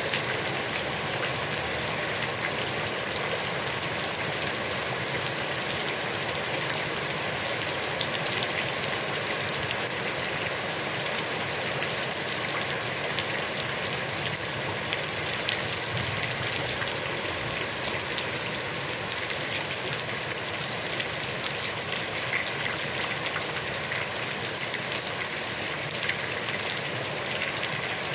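Heavy rain falling steadily onto a pond's water, a dense, even hiss of countless drops with fine splashes throughout.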